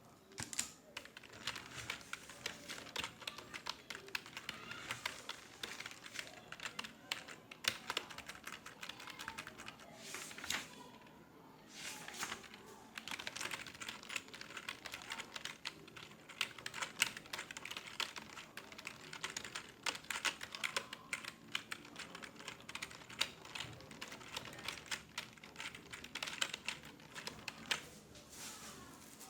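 Rapid, irregular typing on a computer keyboard, with a short pause about eleven seconds in.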